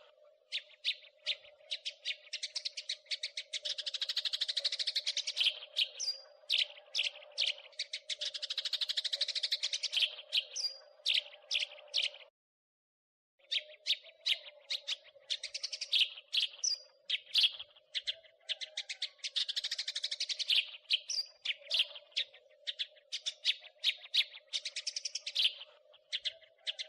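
House sparrow chirping in fast, dense runs of short chattering notes, over a faint steady hum. The sound cuts out completely for about a second near the middle, then the chirping resumes.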